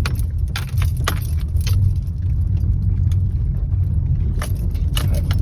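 Car driving, heard from inside the cabin: a steady low road rumble with sharp rattling clicks coming and going, several in the first two seconds and again near the end.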